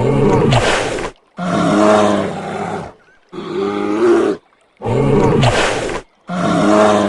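Bear roaring: about five rough roars of a second or so each, with short gaps between them, the same roars repeating as in a loop.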